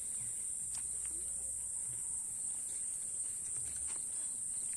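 Steady, high-pitched chorus of insects chirping in the trees, with a couple of faint clicks.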